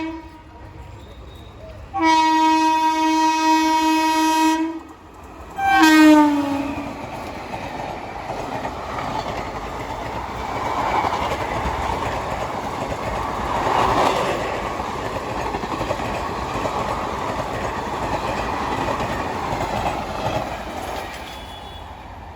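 An Indian Railways train sounds a long, steady horn blast, then a short blast that drops in pitch as it reaches the crossing. It then rushes past at speed, its wheels and coaches rattling over the track for about fourteen seconds before the noise eases.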